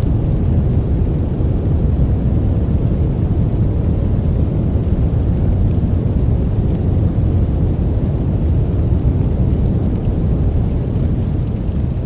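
Steady, deep rushing noise from a sleep-aid 'white noise' track. It is even and unbroken, with most of its weight in the low rumble and little hiss on top.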